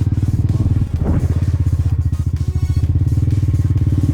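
Motorcycle engine running under way, a steady, rapid pulsing note with a brief dip about a second in.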